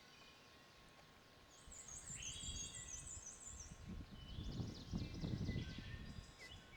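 Wind gusting on the microphone, strongest a little past the middle, with small songbirds singing high trills and whistles from about a second and a half in.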